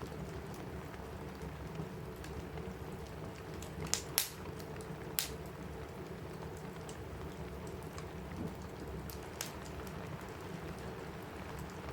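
Steady rain pattering on a cabin roof, with a few sharp pops from a crackling wood fire: a cluster about four seconds in, another just after, and one more near the end.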